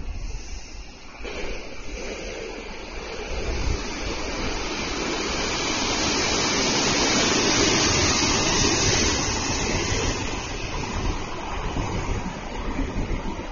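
Odakyu MSE Romancecar electric train running past through the station: a rush of wheels on rail and air that swells to a peak mid-way and then fades as the cars go by.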